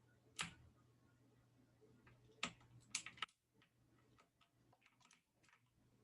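Computer keyboard keys clicking: one sharp click about half a second in, a quick cluster of clicks around the middle, then fainter scattered clicks, over a faint hum.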